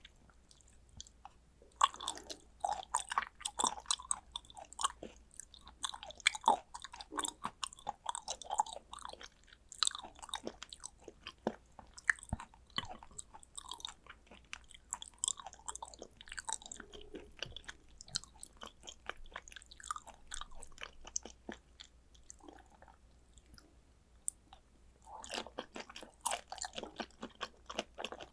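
A person chewing raw tuna sashimi, wet mouth and smacking sounds coming in bunches of short clicks, with a brief pause near the start and another a few seconds before the end.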